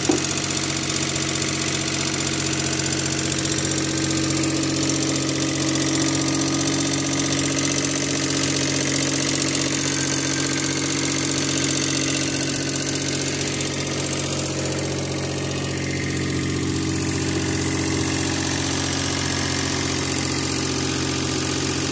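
Metro's freshly rebuilt three-cylinder engine idling steadily with the hood open, running again after a stuck-shut fuel injector was replaced.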